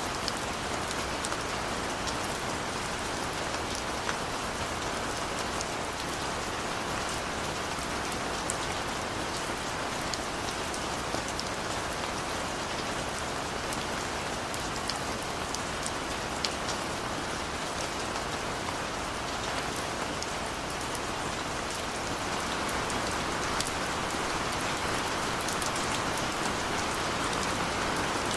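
Steady rain falling, with a dense patter of individual drops hitting a surface; it swells slightly near the end.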